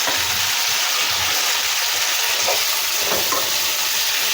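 Masala ingredients with freshly added mint leaves sizzling in a hot pan, a steady hiss with a few light scrapes from stirring.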